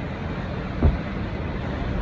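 Hurricane-force winds blowing steadily, with a heavy low rumble, and a short thump a little under a second in.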